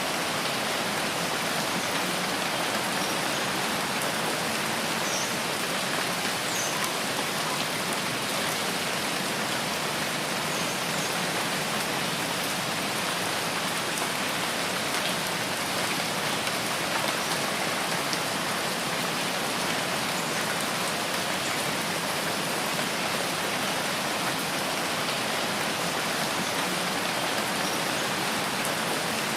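Steady rain falling on foliage, an even, unbroken hiss, with a few faint short chirps from small animals here and there.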